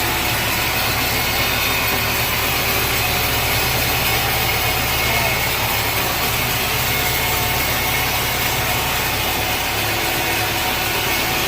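Sawmill machinery running steadily: a constant low motor hum under an even hiss.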